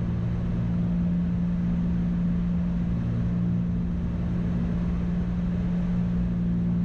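Steady drone of a Cessna's piston engines and propellers, heard inside the cabin during the landing approach, as an even hum that does not change.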